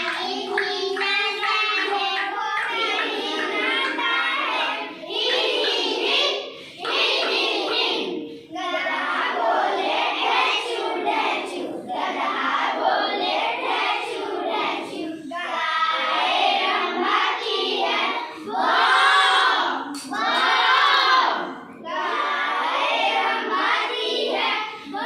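A group of young children imitating animal sounds together, their voices in repeated loud bursts of a second or two.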